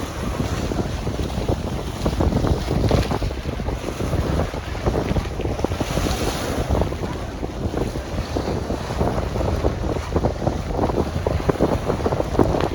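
Strong wind buffeting the microphone in gusts, over lake waves breaking and splashing against a pier, with a brief rush of spray-like hiss about six seconds in.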